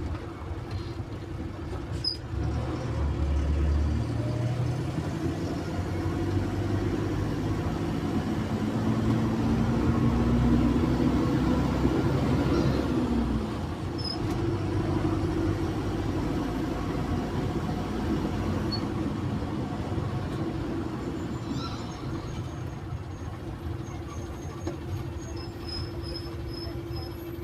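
Cummins engine of a Zhongtong LCK6150D city bus running under way. Its pitch rises steadily for several seconds as the bus accelerates, then drops about halfway through and settles to a steadier run. Faint short high beeps come near the end.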